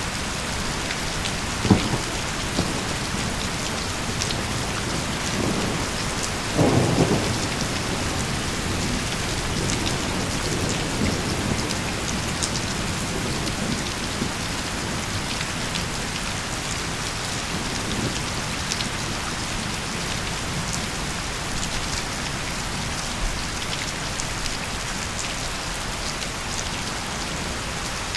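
Steady heavy rainfall with thunder: a sharp crack about two seconds in and a louder rumble around seven seconds in.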